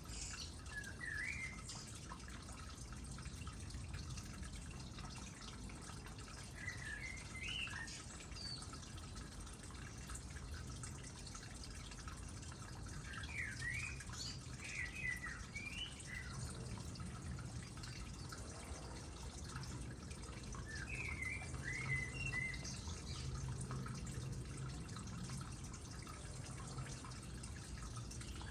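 Water trickling and dripping into a small pond, a steady gentle patter. A songbird sings short warbling phrases over it every six or seven seconds.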